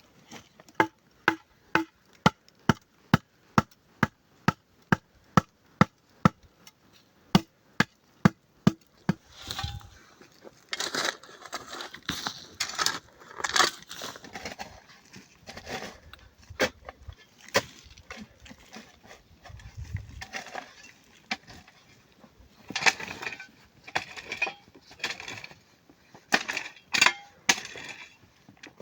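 A run of sharp, evenly spaced knocks, about two or three a second, lasting roughly nine seconds, like a tool striking wood. After that come irregular knocks and scraping, louder in clusters around the middle and near the end.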